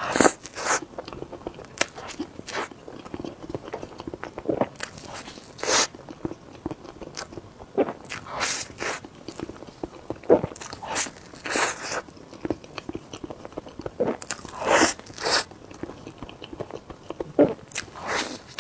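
Close-up eating sounds: bites and chewing of soft desserts, with sticky, squelchy mouth sounds coming in irregular bursts every second or two.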